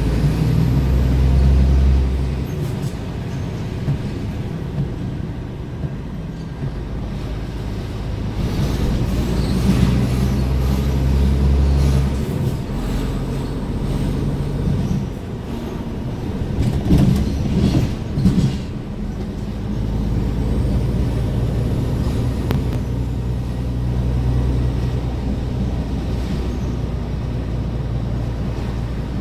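Scania R410 truck's diesel engine running while driving, its low note shifting as the load and revs change about 2 s, 12 s and 20 s in. A few short knocks come around the middle.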